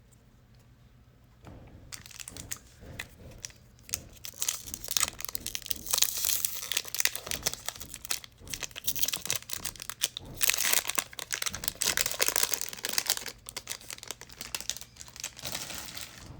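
Trading card pack wrapper being torn open and crinkled by hand. Quiet for the first second or so, then a dense crackling rustle that is loudest in two stretches.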